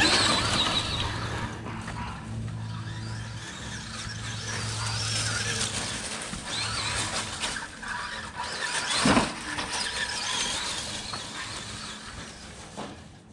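Electric RC stadium truck running on a 3S battery, its motor whining up and down in pitch as the throttle is worked, with wheel and chassis noise. About two-thirds of the way through there is one sharp, louder sweep.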